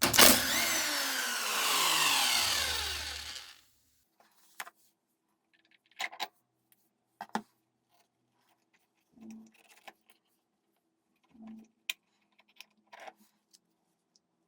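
A power tool runs for about three and a half seconds, its pitch falling steadily as it winds down. Then come a few scattered knocks and clicks of tools and parts being handled, over a faint steady hum.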